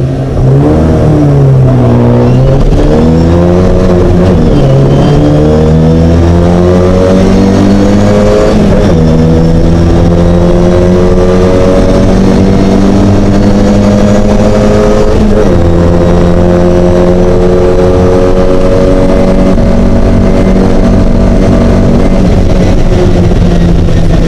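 A Mini race car's engine under hard acceleration, the revs climbing and dropping sharply at upshifts about four, nine and fifteen seconds in, then holding high and steady.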